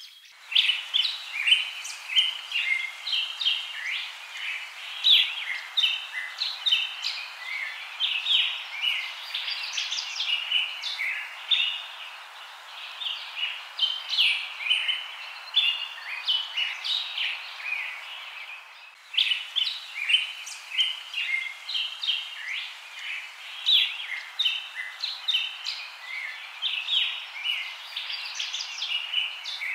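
A chorus of small birds chirping and twittering continuously, with a short break about 19 seconds in.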